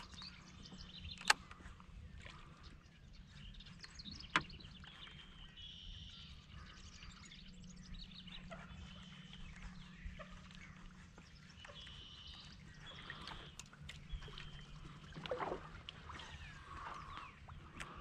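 Faint bird calls, short high chirps recurring every second or two, with two sharp clicks about one and four seconds in and a low steady hum underneath.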